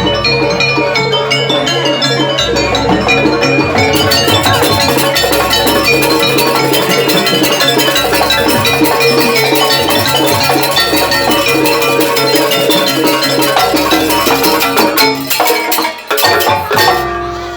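Live jaranan accompaniment in gamelan style: tuned metal percussion plays a dense pattern over drums and low gong strokes. The music breaks off near the end.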